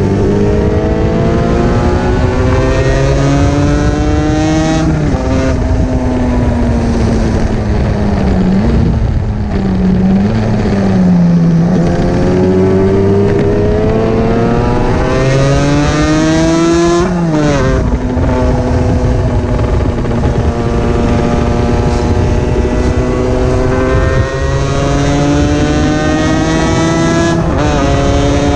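Two-stroke sports motorcycle engine pulling through the gears, its pitch climbing and then dropping at upshifts about 5 seconds in, around 17 seconds and near the end. Between about 8 and 12 seconds it eases off and wavers low before pulling hard again. Steady wind rush runs under it.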